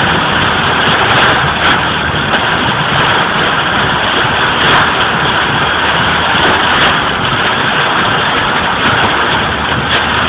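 Heavy rain pounding on a car during a thunderstorm: a loud, steady hiss with a few sharper ticks.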